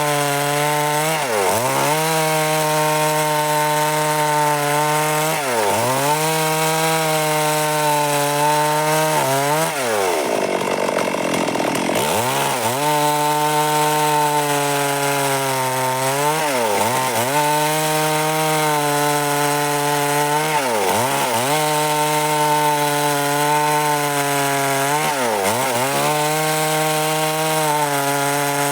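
Stihl MS 382 two-stroke chainsaw running at high revs while cutting wood. Its engine note holds steady, then briefly dips in pitch and climbs straight back about every four seconds, with a longer drop about ten seconds in.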